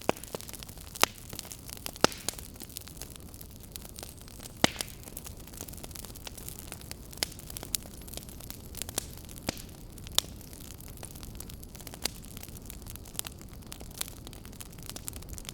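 Fire crackling: sharp, irregular pops and snaps, a few much louder than the rest, over a steady low rumble and hiss.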